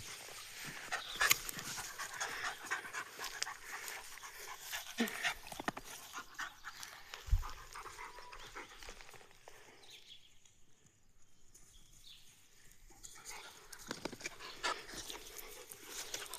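A dog panting, with scattered rustling and clicks, going quieter for a few seconds past the middle.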